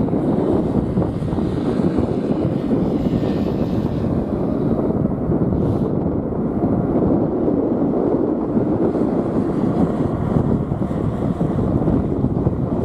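Strong wind buffeting the microphone in a steady low rumble, with a jet airliner's engines running at takeoff thrust under it.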